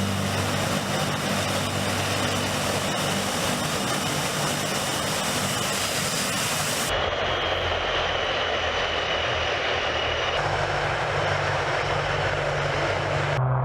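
Tu-95 bomber's four NK-12 turboprop engines with contra-rotating propellers droning: a steady engine noise with low propeller tones. The sound changes abruptly about seven and ten seconds in, as different shots are cut together.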